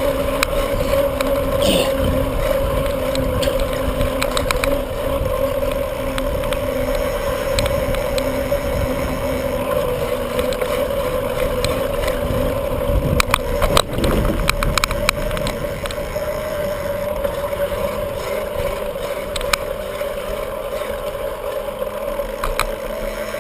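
Riding noise from a bicycle on the road: low rumble and wind on the microphone with a steady drone underneath, and a short cluster of rattles about two-thirds of the way through.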